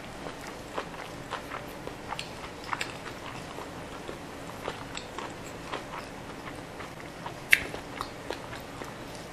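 Close-miked chewing of a mouthful of sushi with pickled ginger, lips closed: soft, irregular wet mouth clicks and smacks, with one sharper click about seven and a half seconds in.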